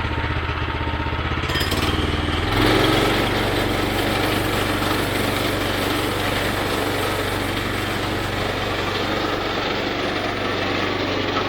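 Woodland Mills bandsaw mill's gas engine idling, then opened up about two and a half seconds in and running steadily at high speed, driving the band saw blade for a cut into a log.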